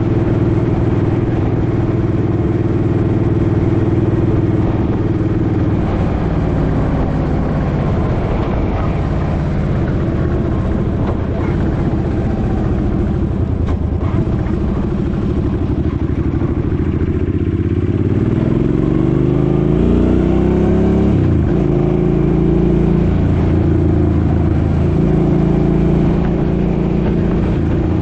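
Suzuki Boulevard M50's 805 cc V-twin engine running under way. About two-thirds of the way in it revs up with a rising pitch, drops sharply at a gear change, then settles back to a steady cruise.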